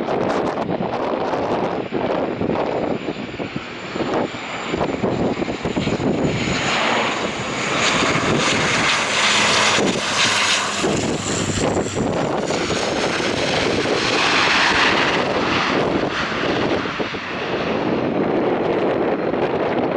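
Bombardier Dash 8 Q400 turboprop passing close by, its engines and propellers swelling to loudest about halfway through and again shortly after. A thin high whine runs through the first half.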